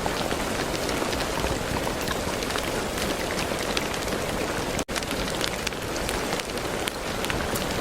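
Steady rain with many distinct drop hits over an even hiss. The sound cuts out for an instant just under five seconds in.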